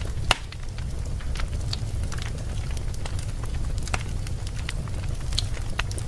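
Wood fire burning in a fireplace: a steady low rumble with scattered crackles and one sharp, louder pop about a third of a second in.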